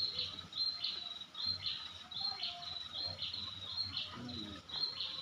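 A bird calling over and over, high-pitched. Each call is a short, clear note followed by a rougher burst, repeated about every two-thirds of a second.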